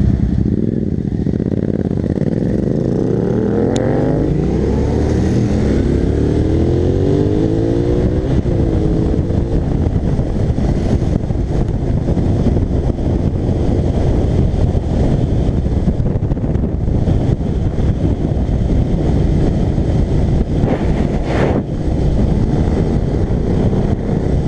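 Twin-cylinder motorcycles with aftermarket exhausts being ridden. The engine note climbs under acceleration from about two seconds in, rising again after a shift near eight seconds, then settles into a steady, rough running sound at speed.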